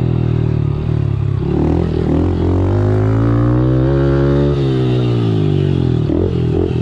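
Small pit bike engine running, its pitch climbing steadily for a couple of seconds as it revs up, then dropping sharply about four and a half seconds in, over a steady lower engine drone.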